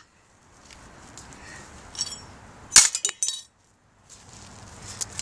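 Parts of a broken ceiling fan being struck and smashed: a couple of small clinks, then one loud sharp hit about three seconds in followed at once by a quick rattle of clinks as loose pieces knock together.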